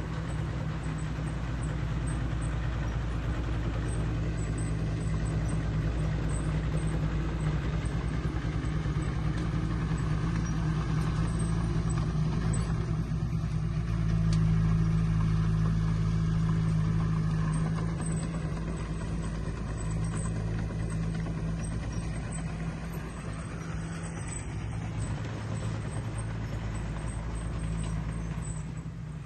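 Diesel engine of heavy earthmoving machinery running steadily under work, getting a little louder for a few seconds about halfway through.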